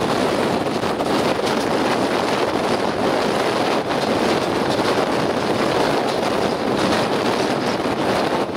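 Passenger train running along the track, heard from an open carriage window, with steady wind rushing over the microphone.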